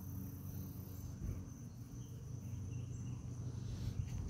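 Crickets chirring steadily in a high, even tone, over a low rumble.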